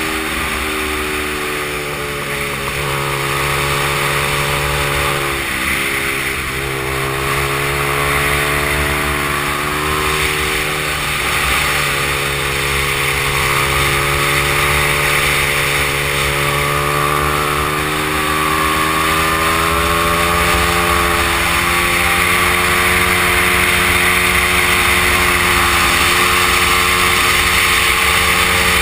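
Honda XR100 minibike's small single-cylinder four-stroke engine running hard around a track. Its pitch climbs and drops with throttle and gear changes, sharply several times, with wind rush over the top.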